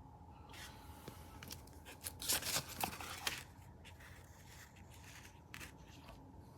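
Rustling and crinkling handling noise, loudest in a tearing-like burst about two to three seconds in, followed by a few light clicks.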